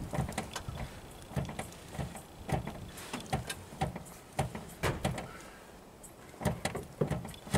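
Gas pedal of an old Ford car being pumped over and over to prime the carburettor before a start attempt, its linkage giving irregular clunks and creaks, about two to three a second, with a short pause near the end.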